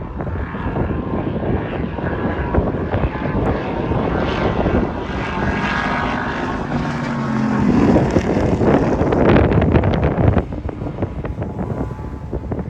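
A sports car's engine at high revs passing close by on a race track. The whine builds as it approaches, drops in pitch as it goes by, and is loudest just before it falls away about ten seconds in.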